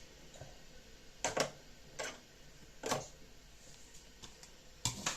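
A handful of separate sharp clicks and knocks, about five spread over a few seconds, from objects being handled and set down, over faint room tone.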